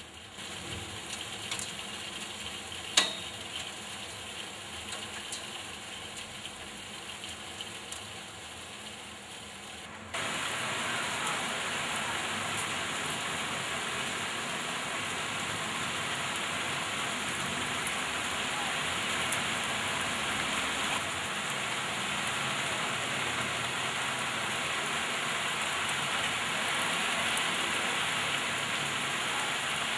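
Heavy rain pouring steadily, with a single sharp knock about three seconds in. About ten seconds in the rain suddenly becomes louder and fuller.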